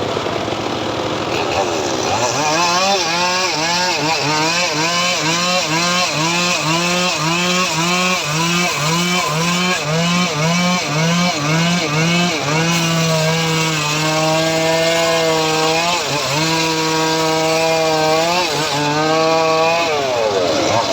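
Small engine of a homemade srekel saw rig speeding up about two seconds in and cutting teak wood. Its pitch rises and falls about twice a second under the load of the cut, then runs steadier with brief dips near the end.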